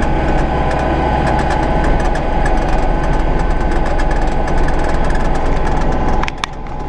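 Kubota tractor's diesel engine running steadily, with many short clicks and rattles over it; the engine sound drops in level about six seconds in.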